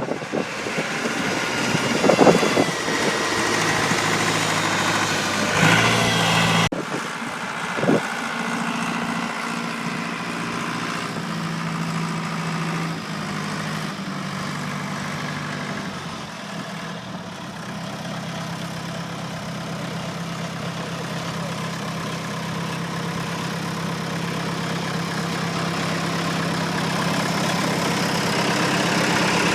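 An engine idling steadily, with a few loud knocks or clanks in the first several seconds.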